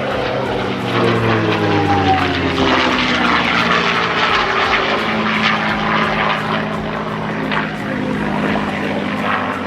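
P-51 Mustang's Packard Merlin V-12 engine flying past in a display pass, its pitch falling as it goes by over the first few seconds, then a steady drone.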